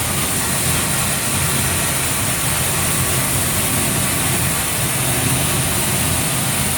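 Seed sorting machine running steadily: a constant machine noise with a high hiss over a low hum.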